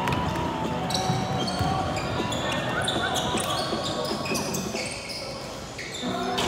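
Basketball game play in a gym: the ball bouncing on the court and sneakers squeaking in short, high chirps, with voices in the background.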